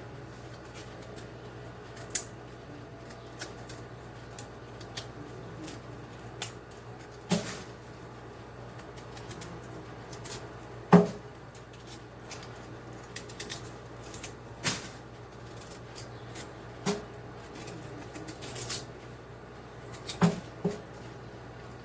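Kitchen knife knocking and clicking on a cutting board as white yam is peeled and cut into chunks, in scattered irregular strokes, with one louder knock about eleven seconds in.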